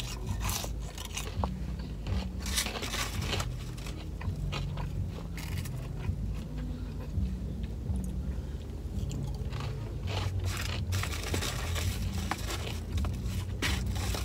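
Close-up chewing and crunching of seasoned French fries dipped in ranch, with irregular crisp crunches throughout, over a low steady hum.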